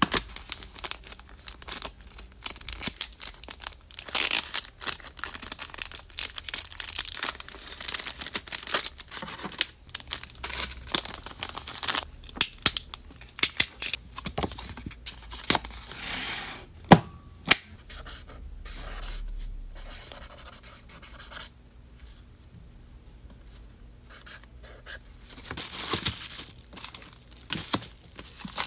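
Plastic and paper packaging being handled up close: crinkling and tearing with many small sharp clicks and taps, easing to a quieter stretch about two-thirds of the way through before picking up again.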